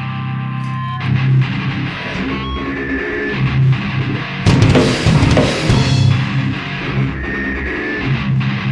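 Heavy metal instrumental intro: distorted electric guitars with a drum kit, coming in fully about a second in after a held chord.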